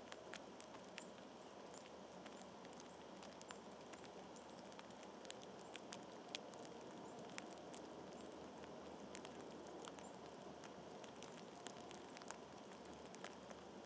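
Faint, irregular small clicks and ticks, several a second, over a steady outdoor hiss.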